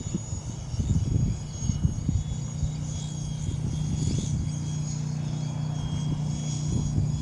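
FX070C RC helicopter in flight: a steady high electric motor and rotor whine that drifts a little in pitch, with a low hum beneath. Strong wind buffets the microphone in gusts, most heavily in the first couple of seconds.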